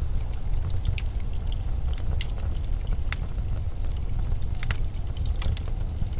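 Blizzard wind as a steady low rumble, with irregular sharp crackles and ticks scattered over it.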